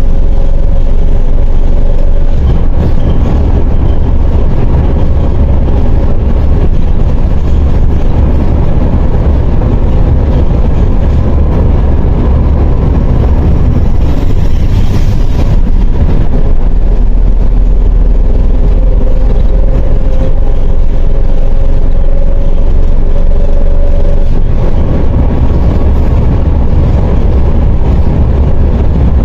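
MAZ 104.021 city bus driving, heard from inside: a loud, steady low diesel rumble with road noise. A whine rises slowly in pitch in the second half as the bus picks up speed. There is a short burst of hiss about halfway through.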